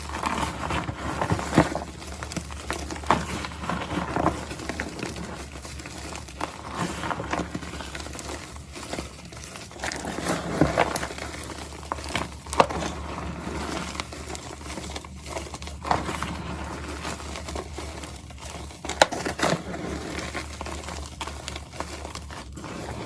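Crunchy powder block being crushed and crumbled by hand, with irregular crackling crunches and small sharp snaps throughout.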